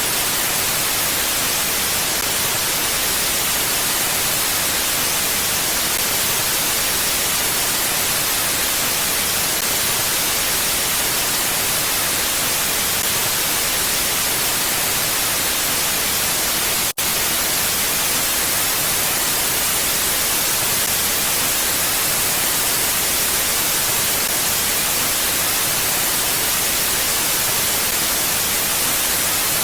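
Steady mountain wind as an even hiss, with a brief dropout about 17 seconds in.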